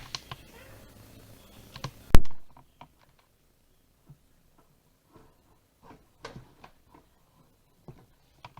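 A single loud, sharp knock about two seconds in, after which the steady background hiss drops away; then scattered faint clicks and taps.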